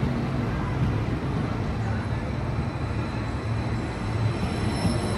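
Train running at the station: a steady rumble with a low hum, and a faint high whine growing near the end.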